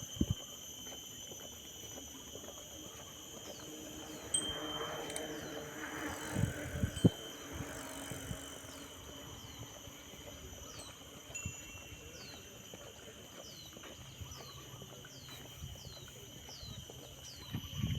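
Crickets and other insects holding steady high-pitched tones, joined from about four seconds in by a bird repeating a short falling chirp about twice a second. A few soft low thumps come through now and then.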